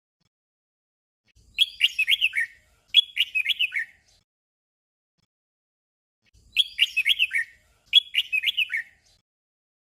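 Red-whiskered bulbul singing a short, simple phrase twice in quick succession (a "double" song). The pair comes twice, about five seconds apart.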